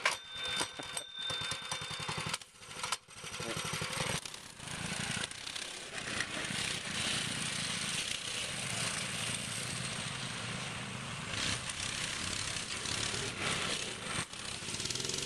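Mini bike's small single-cylinder engine running, its revs changing in the first few seconds and then holding steady.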